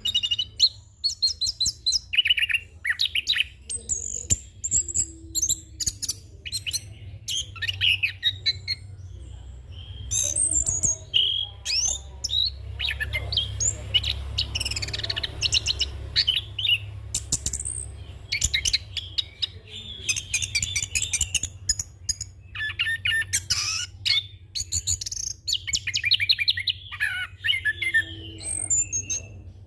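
Chestnut-capped thrush (anis kembang) singing a long, continuous, varied song of rapid trills and sharp whistled phrases with mimicked fill-in notes, over a low steady hum.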